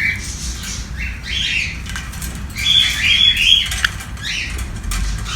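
Sun conure giving a series of short, harsh chirps and squawks, with a denser run of calls about three seconds in.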